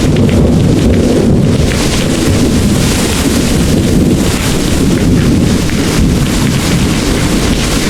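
Heavy rain pouring steadily as a dense hiss, with a continuous low rumble of distant rolling thunder underneath.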